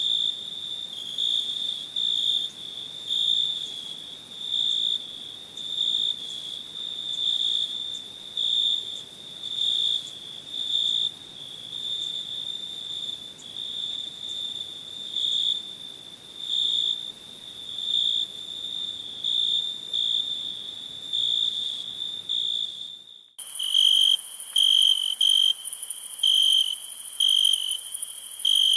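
Crickets chirping at night: a steady high trill swelling in regular pulses a little under once a second. Near the end the recording cuts abruptly to a louder, slightly lower cricket chirping about twice a second over a high hiss.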